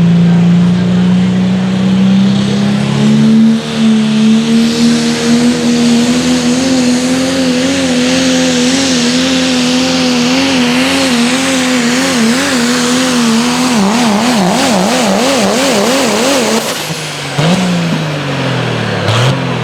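Dixie Ram open four-wheel-drive pulling truck's engine at full throttle through a pull. The pitch climbs over the first three seconds and holds high and steady, then the engine speed surges up and down for a few seconds. The sound drops away about seventeen seconds in, followed by a short blip of revs.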